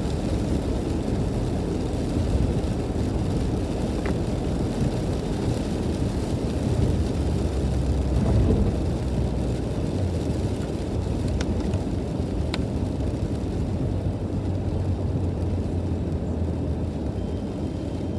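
Car driving on a rain-wet road, heard from inside the cabin: a steady low rumble of road and engine noise with tyre hiss, and a few faint ticks.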